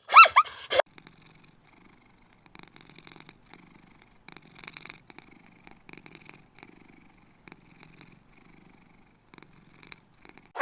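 Domestic cat purring faintly and steadily in a fast rhythmic pulse, after a brief high-pitched call in the first second.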